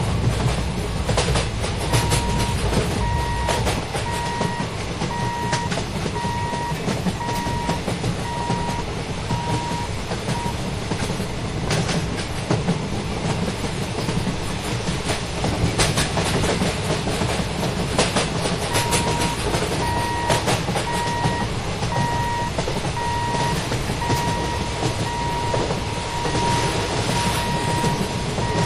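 An express passenger train rolling past on the rails, with a steady rumble and wheels clacking over the rail joints. A high electronic beep repeats a little faster than once a second in two spells, the second starting about two-thirds of the way through.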